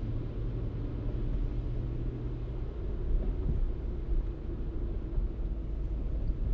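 A car driving: a steady low engine and road rumble, with a hum that drops away about two and a half seconds in.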